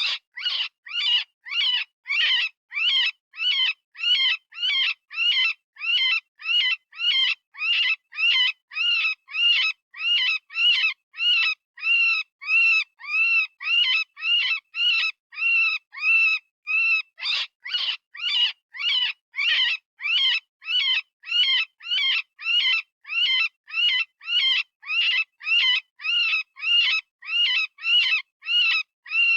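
Synthesized rabbit distress call: a long run of short, high-pitched screams, about two a second, each rising and falling in pitch.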